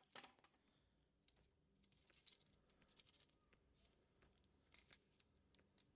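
Near silence, with faint scattered small clicks and rustles.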